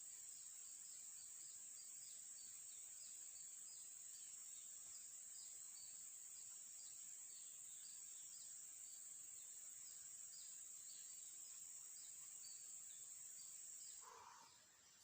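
Crickets chirring in a steady high drone, with many short chirps repeating over it. The drone drops away sharply about a second before the end, and a brief lower call is heard just after.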